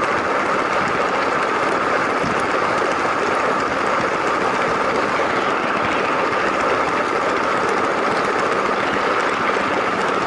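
Toy LEGO train running steadily: the small electric motor's gear whine and the plastic wheels rolling on plastic track, an even, unbroken noise.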